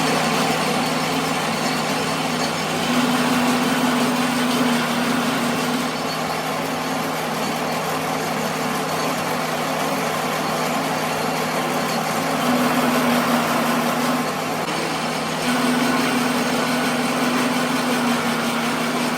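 A machine running steadily with a continuous hum. A higher tone within it grows louder for a few seconds at a time, about three seconds in, again around twelve seconds, and from about fifteen seconds on.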